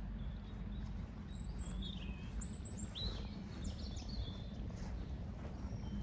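Small songbirds chirping: a cluster of short, high chirps through the middle, over a steady low outdoor rumble.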